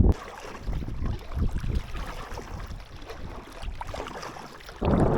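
Wind and choppy lake water lapping against a kayak, with wind buffeting the microphone in low rumbles. It turns suddenly louder near the end.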